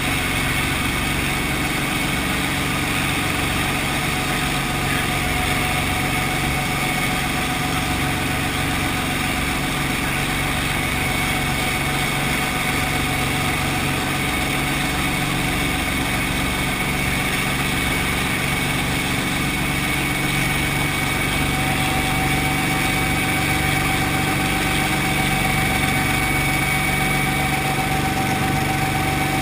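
Brantly B2B helicopter's four-cylinder Lycoming piston engine and rotor drivetrain running steadily, with a steady whine over the engine; one tone edges slightly higher near the end.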